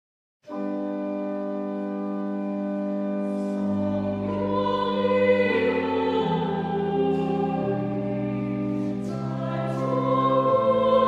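Church choir singing an Anglican hymn with organ accompaniment. The organ's held chord starts about half a second in, and the choir's voices join around four seconds in.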